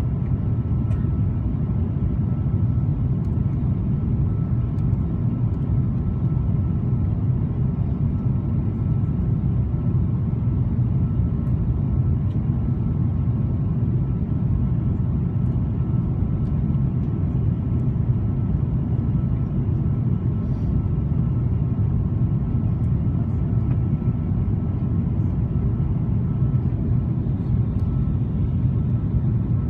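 Steady low rumble of an Airbus A330-200 airliner heard inside the passenger cabin, with a faint steady whine above it.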